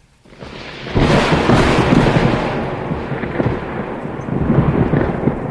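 A long roll of thunder, building over about the first second, then rumbling on with crackling strokes and easing off near the end.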